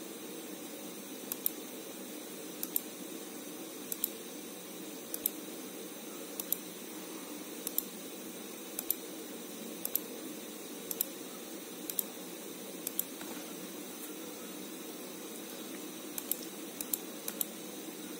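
Steady electrical hum and hiss, with short sharp clicks, often in pairs, recurring at a fairly even pace of about one every second.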